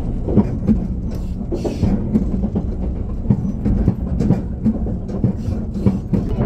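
Running noise of a JR Kyushu 787-series electric limited express heard from inside the car at speed: a steady low rumble with frequent irregular clacks of the wheels over the rails as it runs through a station without stopping.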